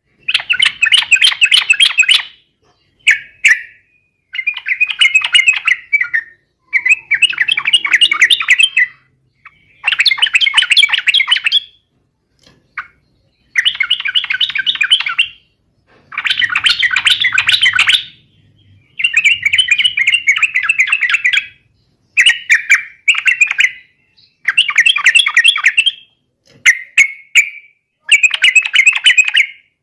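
Yellow-vented bulbul singing a rapid, rolling chattering song in repeated phrases of one to two seconds each, separated by short pauses.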